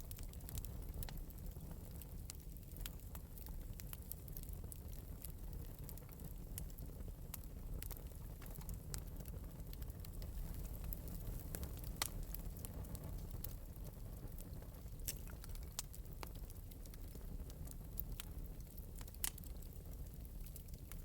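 Fire in an open metal fireplace crackling, with irregular sharp pops, a few louder than the rest, over a steady low rumble.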